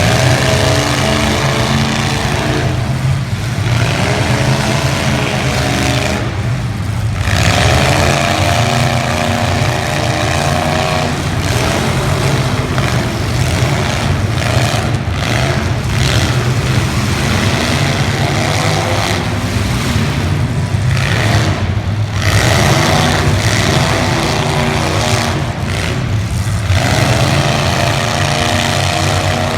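Demolition derby cars' engines running hard and revving, the pitch surging up and falling back every few seconds over a steady low rumble.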